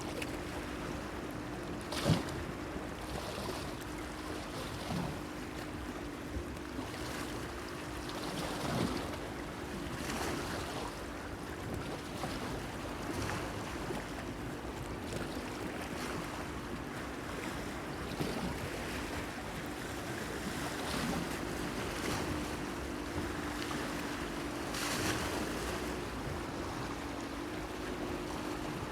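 Small waves lapping and slapping against a pier, with a sharper splash about two seconds in, over a steady low hum.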